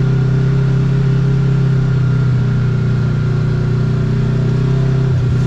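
Kawasaki KRX side-by-side's parallel-twin engine running steadily, with a brief dip in its drone near the end.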